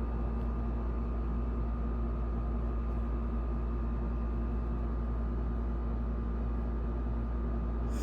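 Steady low hum with a faint hiss of room background noise, unchanging throughout, with no distinct events.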